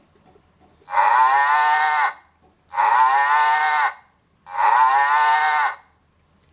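A cow mooing three times, each moo a little over a second long with its pitch sliding down at the end.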